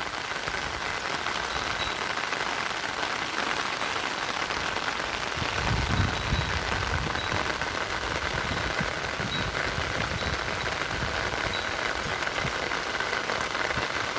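Steady rain falling, an even hiss of drops, with a brief low rumble about five to six seconds in.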